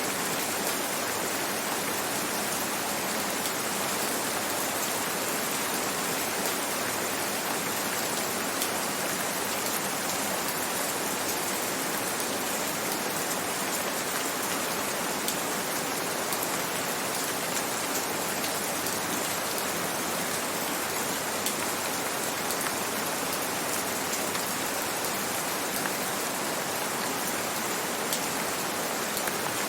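Steady rain falling, an even hiss of many small drops on surfaces, with faint close drop ticks throughout.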